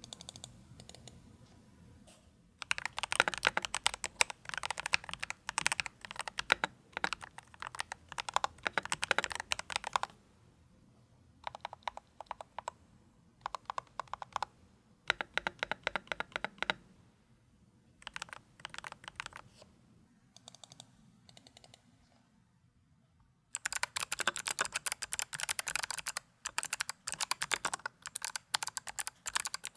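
Typing on the ROG Strix Scope II 96 Wireless mechanical keyboard, whose pre-lubed switches sit on silicone dampening foam. Fast runs of keystrokes come with short pauses between them, the first run the longest, lasting about seven seconds.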